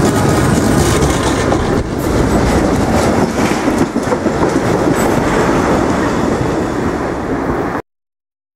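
Work train passing close by: a small SBB diesel shunting tractor with a loading crane hauling flat wagons loaded with rails, its wheels clattering over the rail joints. The sound cuts off suddenly near the end.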